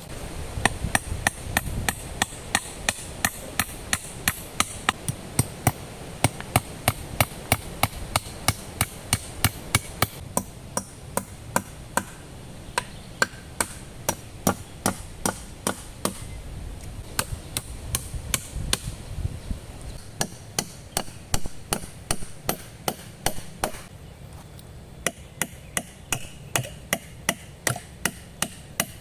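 A hand tool striking repeatedly and quickly, about three sharp blows a second, with a brief thinning of the strokes around a third of the way through. A low, steady rumble lies beneath.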